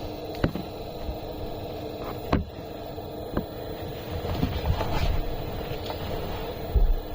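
Eberspacher Airtronic diesel air heater starting up, its blower running with a steady hum and several steady tones. Over it come a few sharp knocks and some low bumps as the recording phone is handled and set down closer to the heater.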